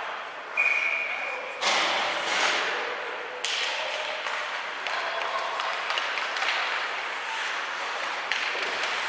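Ice hockey game in an arena: sharp knocks of sticks, puck and boards over a hum of crowd voices, with a short steady high tone about half a second in.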